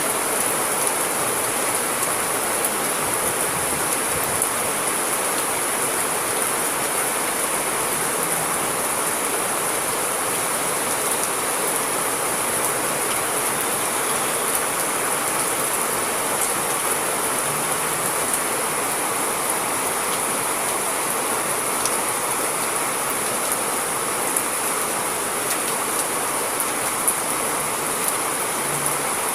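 Steady rain falling: an even hiss with scattered small ticks.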